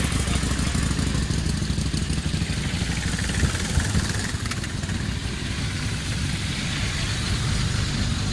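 Motorcycle engine running at low revs, fairly steady throughout.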